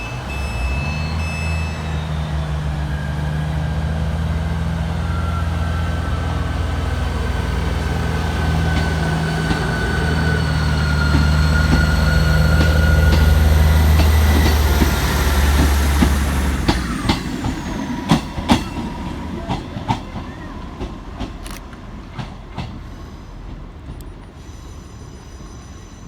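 Class 158 diesel multiple unit pulling away from the platform, its underfloor diesel engines running hard with a deep drone that builds to a peak. About two-thirds through, the engine note drops away, leaving clicks of the wheels over rail joints as the train recedes.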